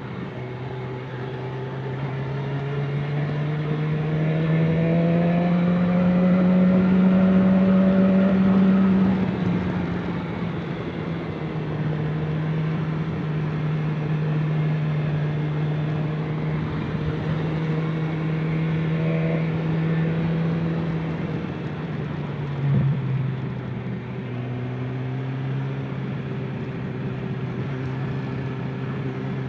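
Motor vehicle engine running under way, its pitch climbing and getting louder over the first several seconds, easing back, holding steady, dropping again past the middle and starting to climb near the end, as with changes of speed and gear.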